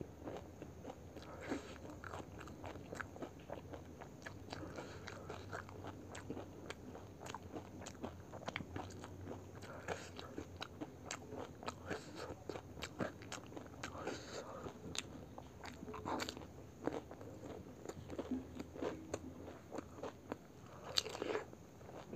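Close-miked chewing of pani puri: crisp puri shells crunching and crackling between the teeth in quick irregular clicks, with a louder crunch near the end.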